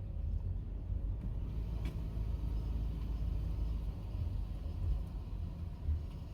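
Steady low engine rumble of a motor vehicle running, with no sharp changes.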